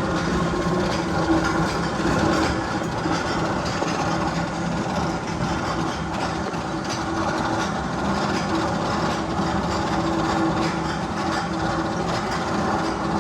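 Steady rolling rumble and clatter of a train on rails, with a steady low hum running under it.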